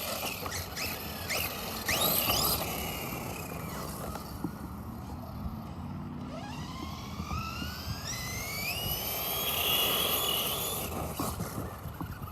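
Electric motor and drivetrain of a Force RC Epidemic 1/8-scale 4x4 RC monster truck on 4s LiPo power, whining in short bursts of throttle, then a long whine rising in pitch as it accelerates about halfway through.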